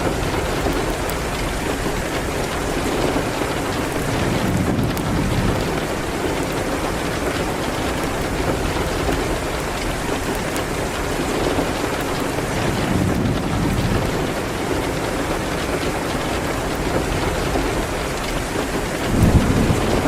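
Steady heavy rain on a window, with low rumbles of thunder swelling a few times, the strongest near the end. A fireplace crackles faintly underneath.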